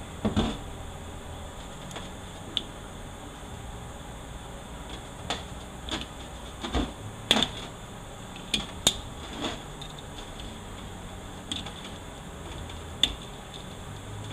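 Scattered clicks and clinks of metal parts from a 4L80E automatic transmission being handled and set down during teardown, over a low steady hum.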